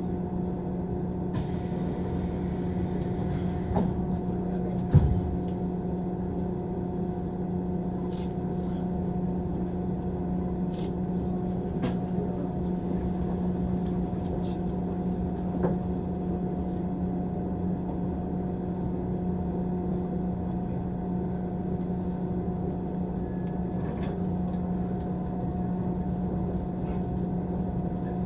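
Cabin noise of a JR East 185 series electric train: a steady low hum with a constant drone, broken by a single sharp knock about five seconds in and a brief hiss near the start.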